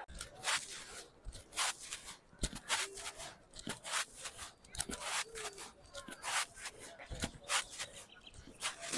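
Irregular rustling and scraping noises, several short ones a second.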